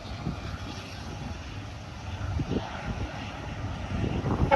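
Low rumble of an approaching diesel locomotive, growing louder near the end.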